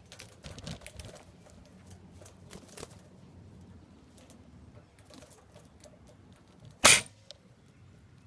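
Faint scattered clicks and rustles, then a single sharp shot about seven seconds in, aimed at a blackbird caught in a trap.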